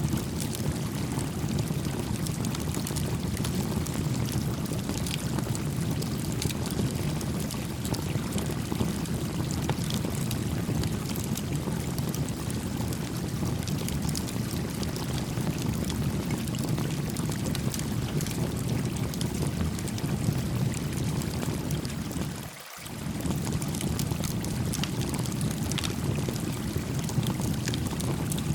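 A small wood campfire crackling with scattered sharp pops over the steady low rush of a gently flowing stream. The water sound dips out briefly for a moment about three-quarters of the way through.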